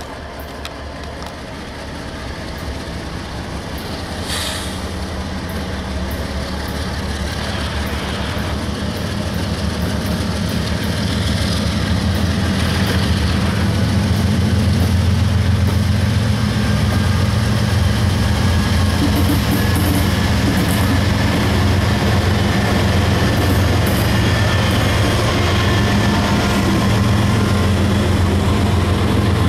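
Several CSX diesel locomotives at the head of a freight train approach and pass close by. Their low engine drone grows louder over the first half and then holds steady. There is a sharp clank about four seconds in.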